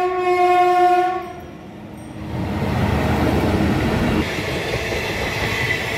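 Train horn sounding one long steady blast that cuts off about a second in, then the rumble and clatter of an express train's coaches passing at speed.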